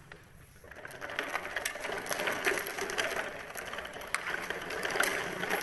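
Miniature plastic toy dump truck rattling and clicking as it is handled and pushed along, a dense run of small clicks and knocks starting about a second in.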